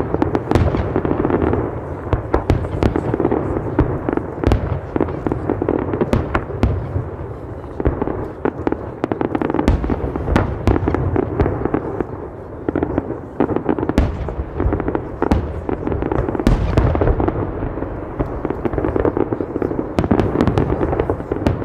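Fireworks going off in a dense, unbroken barrage: rapid overlapping bangs and crackles.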